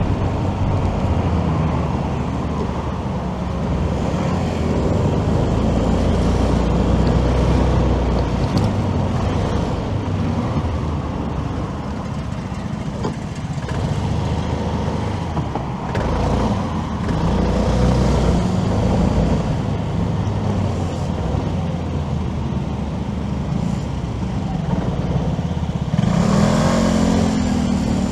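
Motorcycle riding in city traffic: its engine runs and changes pitch with speed over a steady rush of road and traffic noise. Near the end a louder engine sound rises and falls in pitch.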